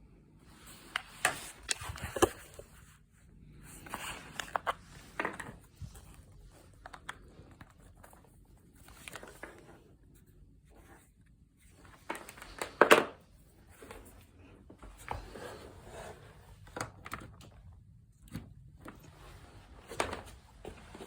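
Handling sounds: irregular bursts of rustling and scraping with several sharp clicks, the loudest click about 13 seconds in.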